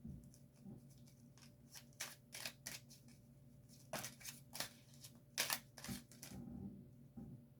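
Tarot cards being handled and shuffled: a string of short, soft snaps and flicks at irregular intervals over a faint steady hum.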